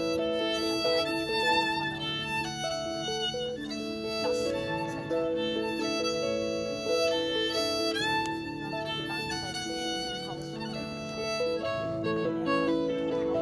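Fiddle music: a melody of held notes over sustained lower notes, with a note sliding upward about eight seconds in.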